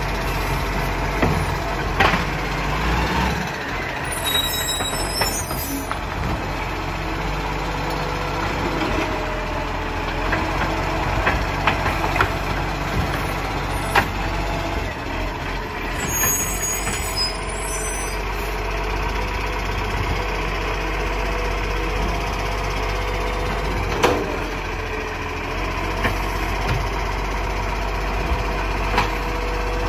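Recycling garbage truck running with a steady engine hum, and a few sharp knocks over it.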